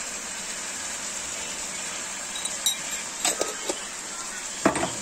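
Chicken gizzards and liver with onions frying in oil in a steel kadai, a steady sizzle, with a few clicks of a metal spatula against the pan around the middle and a louder knock near the end.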